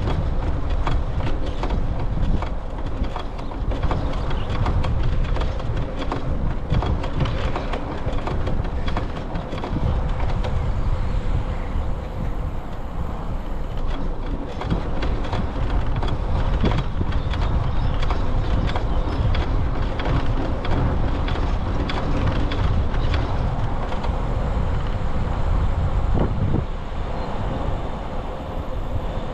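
Riding a bicycle: a steady rumble of wind on the microphone and rolling noise, with many small rattles and clicks from the bike jolting over the path.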